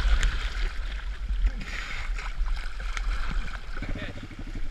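Water splashing and wind rumble as a small pit bike moves through floodwater. Near the end a steady, fast low pulsing starts, about ten beats a second.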